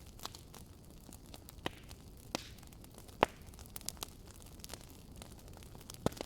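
Campfire crackling: irregular sharp pops and snaps over a steady low hiss, the loudest pop a little past three seconds in.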